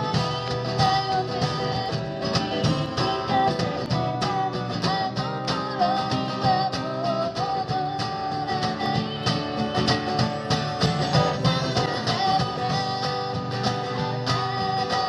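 Live acoustic music: an acoustic guitar strummed steadily under a wavering melody line.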